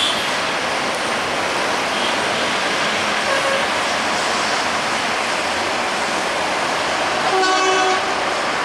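Express passenger train running along the track, a steady rushing rail noise, with one short horn blast about seven seconds in.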